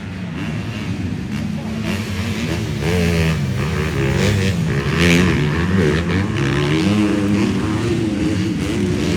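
Several 250-class motocross bikes racing past, their engines revving up and down in pitch as the riders work the throttle through the track.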